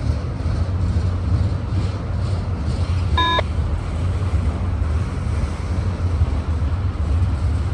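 Diesel freight locomotives running with a steady low rumble. A short electronic beep sounds once about three seconds in.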